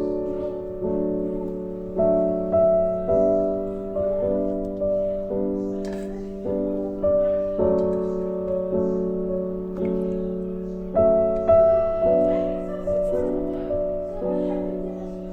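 Background piano music: a slow, gentle run of single notes and chords, each struck and fading.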